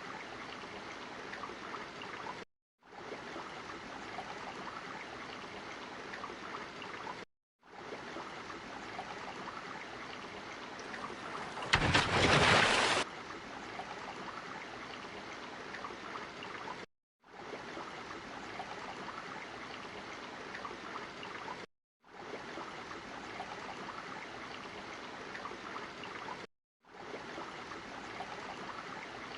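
Looped water sound effect: a steady trickling, running-water noise that repeats in stretches of about five seconds with brief silent gaps between them. Near the middle there is a single louder rush of noise lasting just over a second.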